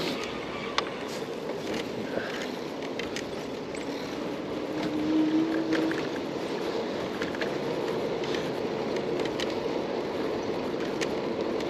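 Street noise and wind on the microphone during a bike ride. There are a few small clicks and a brief steady hum about five seconds in.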